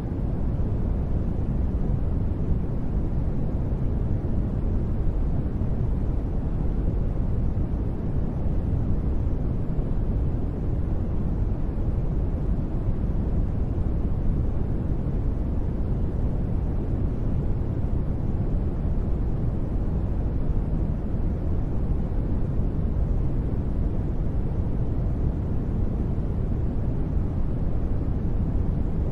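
Continuous white noise for sleep: an even, unbroken hiss, strongest in the low end and fading toward the top, with no sudden sounds or changes.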